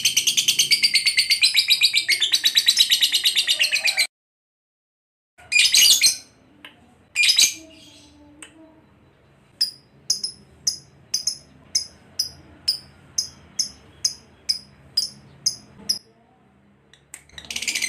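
Lovebird chattering in a fast, continuous, high trill that cuts off abruptly after about four seconds. A couple of sharp calls follow, then a run of short, high chirps repeated about twice a second, and the rapid chatter starts again at the very end.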